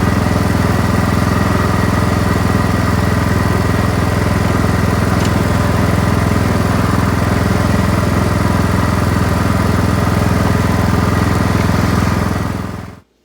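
An engine running steadily at constant speed with an even hum, fading out near the end.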